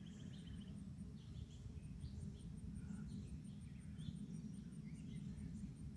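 Faint backyard birdsong: a rapid trill that stops just under a second in, then scattered short chirps, over a steady high ticking about four or five times a second, like an insect, and a low steady rumble.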